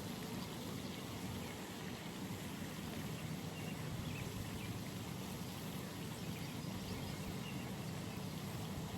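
Steady outdoor pond ambience: an even low rumble with a few faint, short high chirps scattered through it.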